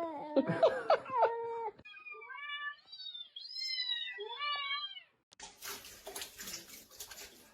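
A cat meowing: a long falling call at the start, then a run of shorter, higher-pitched meows, followed near the end by about two seconds of scratchy rustling noise.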